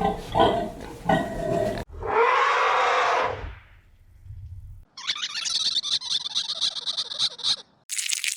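Wild animal calls cut one after another: deep pulsed grunts, then a loud breathy hissing growl lasting over a second, then about two and a half seconds of buzzing rattle.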